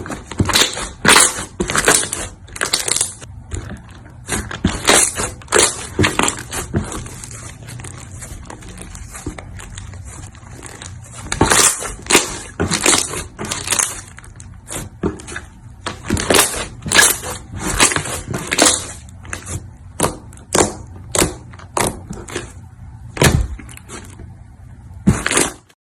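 Slime being pressed and worked by hand, giving runs of crisp crackling and popping snaps in bursts, with a quieter stretch in the middle.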